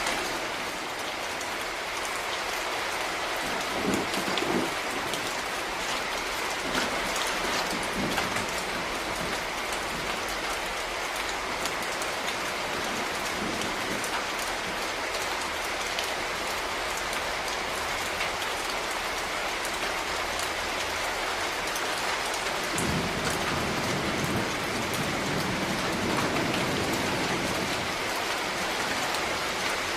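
Steady rain falling, an even hiss with many individual drops ticking on a hard surface. A low rumble swells in briefly a few seconds in and again for several seconds about three quarters of the way through.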